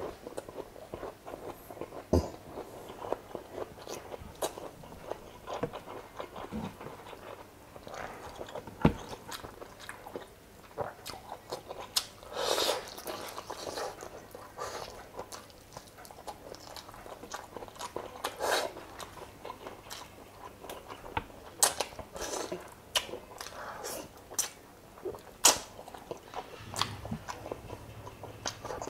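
Close-miked mukbang eating: a person biting and chewing chicken adobo and rice, wet chewing with irregular sharp clicks and smacks.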